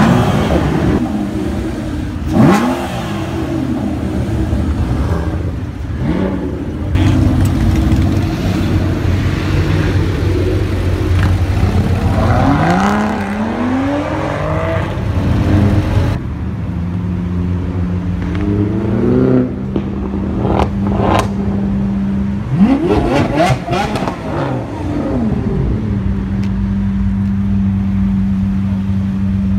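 Sports car engines revved in repeated sharp blips, each rising and falling in pitch, with steady idling between them.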